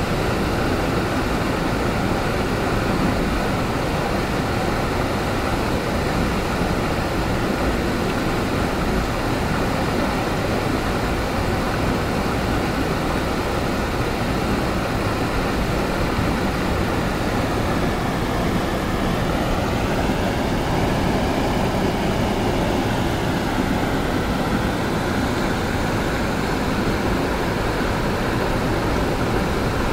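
Waterfall pouring into a pool: a loud, steady rushing of falling water. A faint wavering tone sounds over it past the middle.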